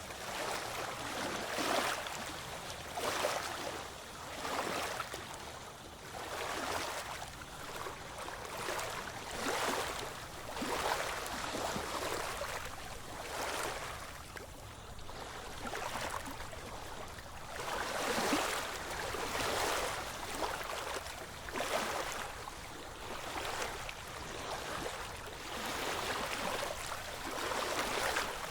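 Ocean waves washing in one after another, a surge of surf every couple of seconds with no quiet gap between.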